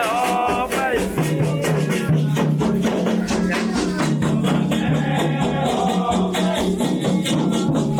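Candomblé ritual music: drums and a rapidly shaken rattle keep a fast, even rhythm under sung chant.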